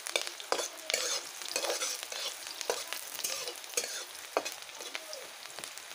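Sliced onions sizzling in hot oil in a metal wok, stirred with a metal spatula that scrapes and knocks against the pan at irregular moments. One knock about four seconds in is the loudest, and the sizzle eases slightly toward the end.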